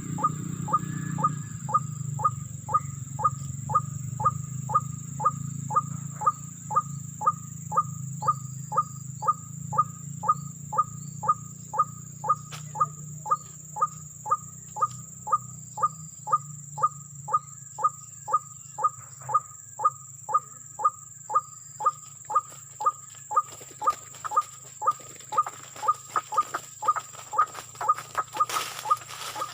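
White-breasted waterhen call: one short note repeated very regularly, about one and a half times a second, over a low rumble that fades in the first third.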